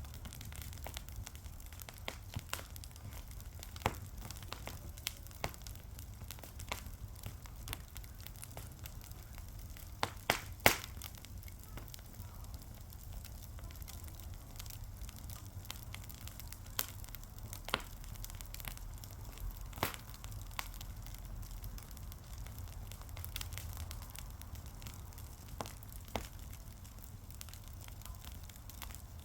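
Wood fire crackling: irregular sharp pops and snaps, a few a second, with two louder pops about ten seconds in, over a low steady rumble of the flames.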